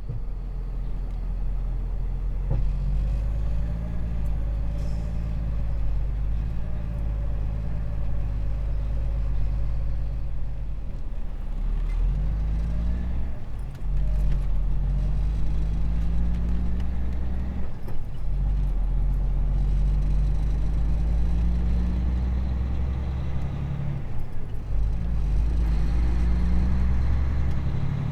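Semi truck's diesel engine pulling away and accelerating through the gears: the engine note climbs in each gear and drops back at each of about three upshifts.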